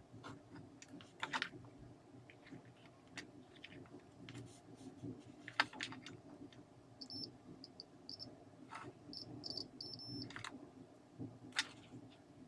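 Scattered light clicks and taps of small parts being handled, with a run of short, high-pitched chirps in the second half.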